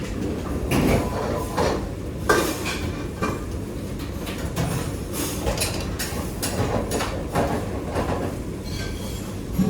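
Kitchen work sounds: irregular knocks, clicks and scrapes of utensils over a steady low rumble.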